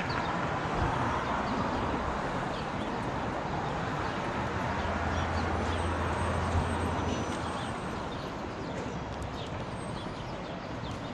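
Angeles Flight funicular railway car running on its track: a steady rumbling noise with scattered light clicks, and a low hum that comes in for a few seconds in the middle.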